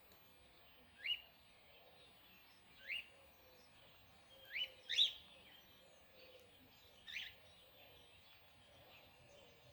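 Birds calling: five short, upward-sliding chirps, spaced irregularly, two of them close together about five seconds in.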